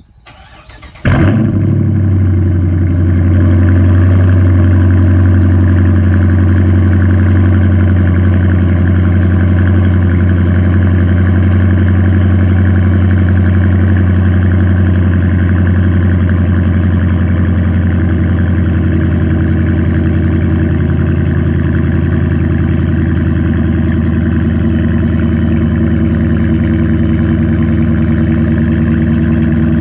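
Dodge Challenger Hemi V8 with an aftermarket exhaust cold-starting: a brief crank about a second in, then the engine catches and runs at a loud, steady cold-start idle.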